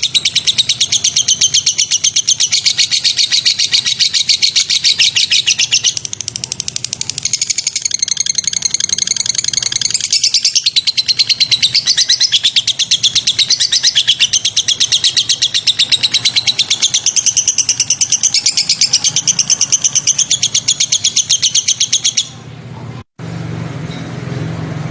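A songbird chatters in a continuous, very rapid run of high repeated notes, from a bird-training recording. The chatter cuts off abruptly about 22 seconds in, followed by a short dropout and a low hum.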